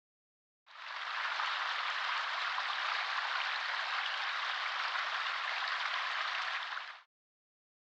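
A steady, grainy hiss that fades in just under a second in and stops shortly before the end.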